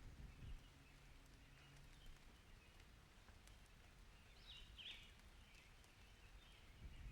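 Near silence: faint outdoor ambience with a low rumble fading out at the start and a brief high chirp or squeak a little after halfway.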